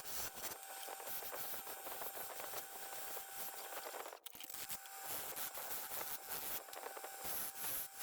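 Dense scratchy scraping and crackling of a tool working wood, over a faint steady hum, cut by a brief dropout about four seconds in.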